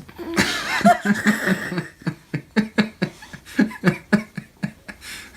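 A person laughing in a long run of short, quick bursts, about four a second.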